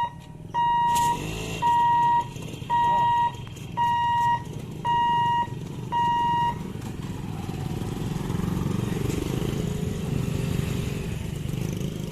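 Railway level crossing warning hooter beeping on one high tone, about one beep a second, then stopping about six and a half seconds in, signalling that the gate is closing for an oncoming train. Beneath it, the engines of motorcycles and other road vehicles waiting at the crossing keep running.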